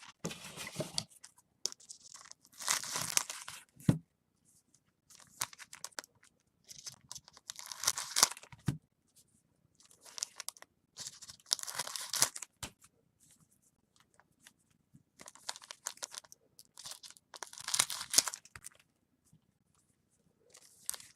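Foil baseball card pack wrappers being torn open and crinkled by hand, in a series of separate rustling bursts with short pauses between.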